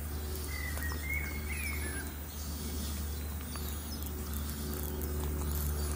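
A bird chirping a few short, rising and falling notes about half a second to two seconds in, with fainter high calls around the middle, over a steady low rumble. Light footsteps crunch on the gravel ballast of the old trackbed.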